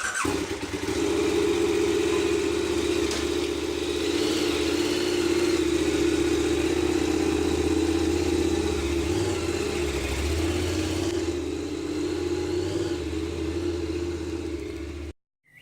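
A vehicle engine running steadily at an even pitch, cutting off abruptly near the end.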